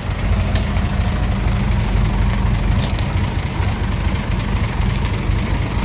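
Heavy diesel engine of earthmoving machinery running steadily with a deep rumble, with a few faint sharp clicks.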